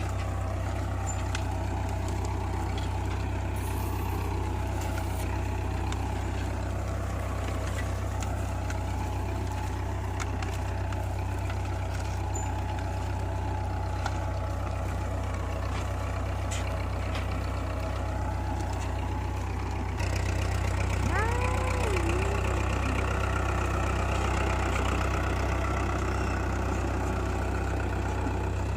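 Tractor engine running steadily. It gets a little louder about twenty seconds in, and a short wavering whistle, rising and then dipping, sounds just after.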